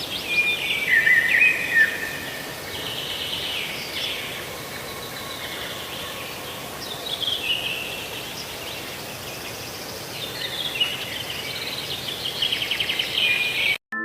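Wild birds chirping and trilling over a steady background hiss, in several bouts of calls, cutting off abruptly near the end.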